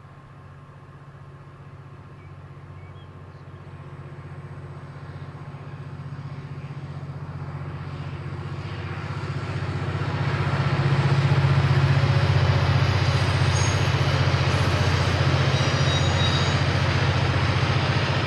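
KiwiRail diesel locomotive approaching: its engine hum and the rumble of the train grow steadily louder over about ten seconds, then stay loud as it runs past.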